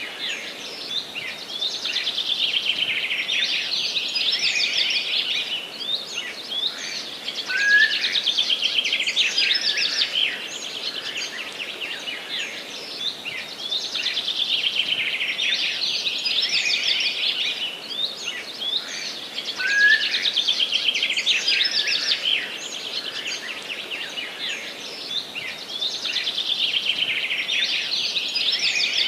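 Songbirds singing in a forest: dense, fast twittering and trilling that swells in bouts every few seconds and eases off between them, over a faint steady background hiss.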